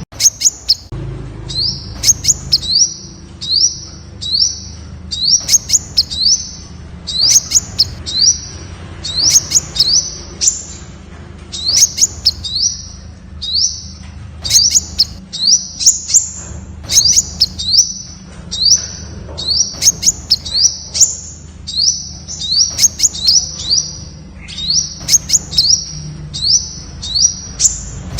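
Temminck's sunbird calling: high, thin notes that each rise quickly in pitch, given in quick runs of three or four and repeated over and over, with sharp clicks among them.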